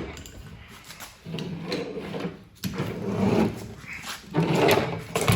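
Bicycle drivetrain parts being worked by hand: about four rubbing, rattling strokes, each under a second long and roughly a second apart.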